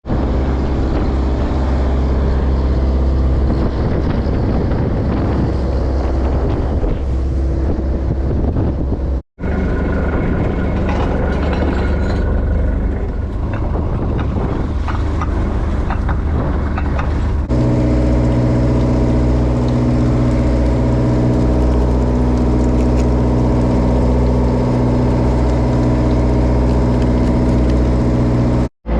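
Fishing trawler's engine running steadily at a constant speed, heard in three stretches split by two brief cuts; in the last stretch its even, droning tone is loudest and clearest.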